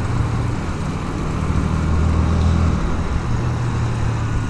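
Honda CBR125R's single-cylinder four-stroke engine running at low revs in traffic, its note stepping up a little about three seconds in.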